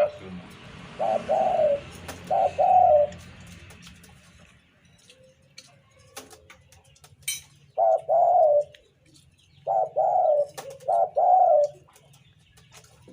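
Spotted dove (tekukur) cooing in repeated short phrases of low coos: two phrases in the first three seconds, a pause of about five seconds, then three more phrases. A short sharp click sounds about seven seconds in.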